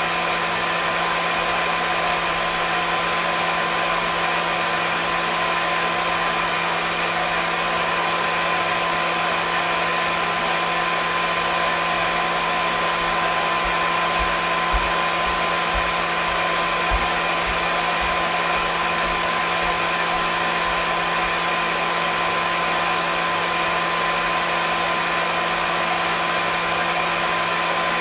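Hair dryer running steadily: an even rushing hiss of blown air with a constant motor hum and whine.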